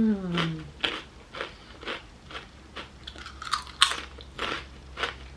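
Close-up chewing of crispy homemade potato chips: short crisp crunches about twice a second, with a louder crunch near four seconds in.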